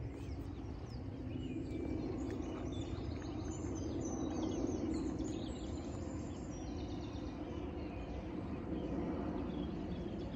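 Small birds chirping and singing, busiest in the middle, over a steady low outdoor background noise.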